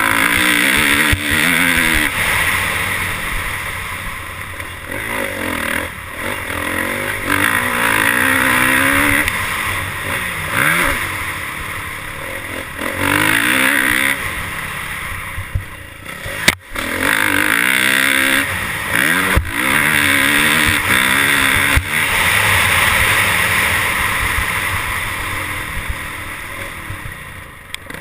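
Dirt bike engines revving up and down over and over, the pitch climbing and dropping as the throttle is worked. There is a single sharp knock a little past halfway.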